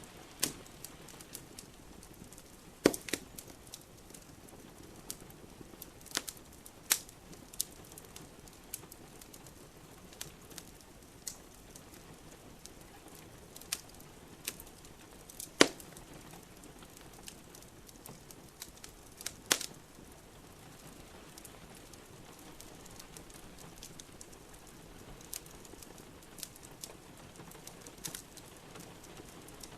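Wood fire crackling in a fireplace: irregular small snaps and a few louder pops, the loudest about halfway through. Underneath is a steady hiss of rain.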